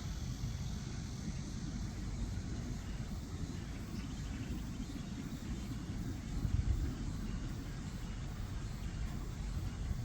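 Steady low outdoor rumble, swelling briefly about six and a half seconds in.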